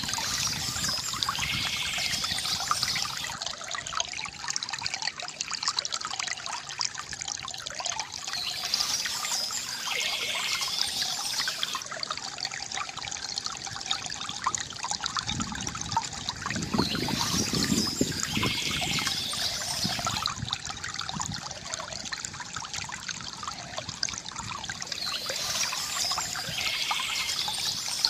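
Water trickling and splashing steadily from a bamboo fountain. A higher-pitched sound comes back about every eight seconds, suggesting a looped recording.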